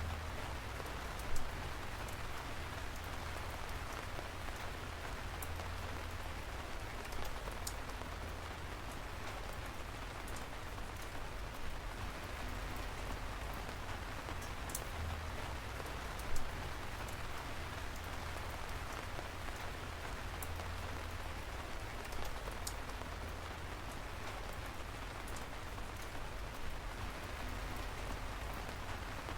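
Steady rain falling, a continuous hiss with scattered individual drops ticking close by, a couple of them louder.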